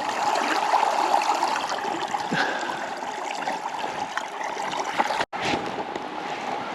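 River water running and rippling steadily, broken by a very short gap about five seconds in.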